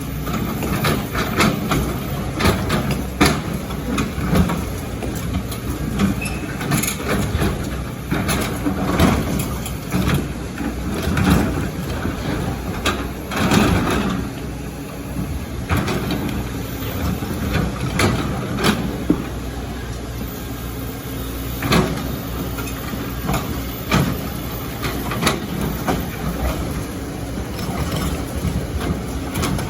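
Excavator's diesel engine running steadily under load, with frequent sharp knocks and clatter of rocks and sand being dug and dropped.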